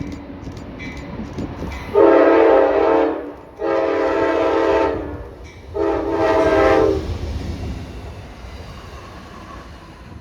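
Locomotive air horn sounding three blasts, each a little over a second long, the first two close together and the third after a short pause, over a train's low rumble.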